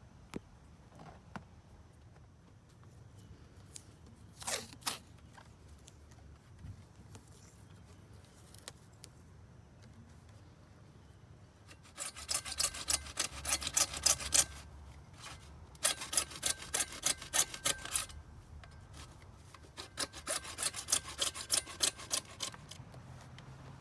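Quick back-and-forth strokes of a hand tool on plastic furnace vent pipe, in three runs of about two seconds each, several strokes a second. A few light knocks and a brief scrape come earlier.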